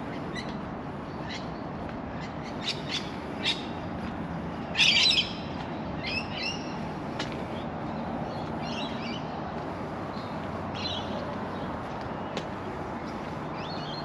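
Birds calling: scattered short chirps, with one louder, harsher squawk about five seconds in, over a steady low rush of background noise.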